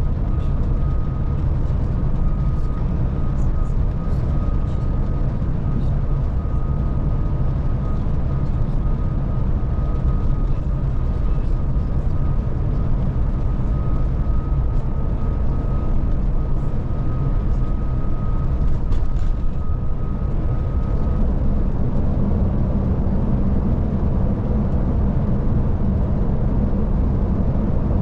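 Scania Touring coach running steadily at cruising speed, heard from inside the cab: engine drone and tyre-on-road noise, with a faint high whine that stops about three quarters of the way through.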